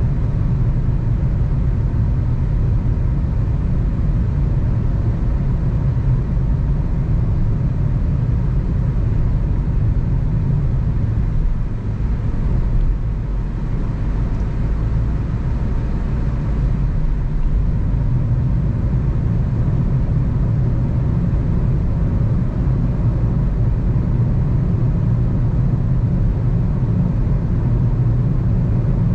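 Car being driven along a road: a steady low rumble of engine and tyre road noise, briefly dipping about twelve seconds in before carrying on.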